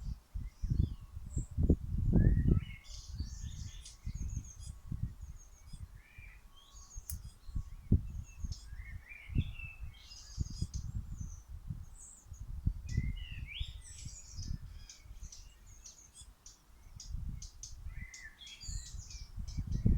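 Several songbirds singing and chirping, with short trills and calls throughout. Irregular low gusts of wind rumble on the microphone and are the loudest sound.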